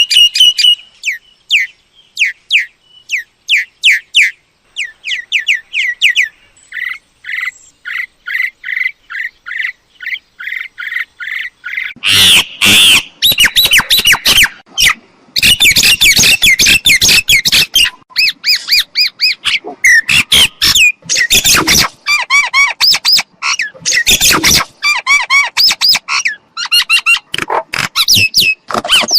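Myna calling: a quick run of short repeated chirps, then from about twelve seconds in much louder, denser harsh calls and squawks.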